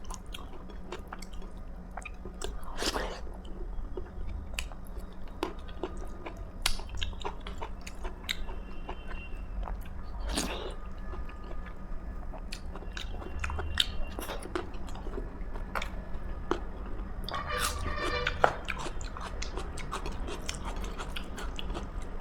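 A person chewing and biting food close to the microphone: wet mouth clicks with a few brief crunches scattered through.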